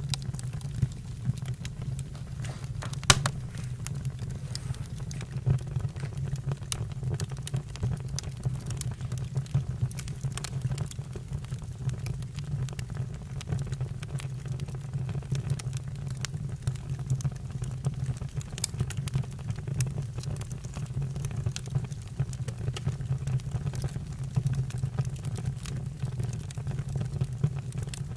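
Campfire crackling: frequent sharp pops and snaps over a steady low rumble, with a louder pop about three seconds in.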